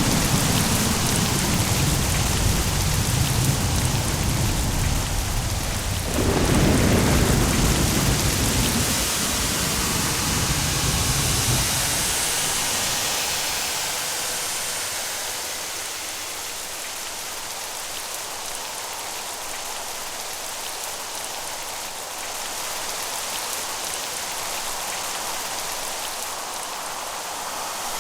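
Steady rain with rolling thunder. The rumble swells again about six seconds in and dies away by about twelve seconds, after which only the rain's hiss remains.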